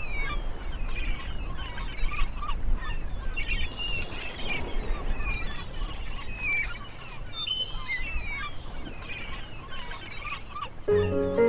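Many birds calling, short chirps and falling cries, over a steady low rumble. Music begins near the end.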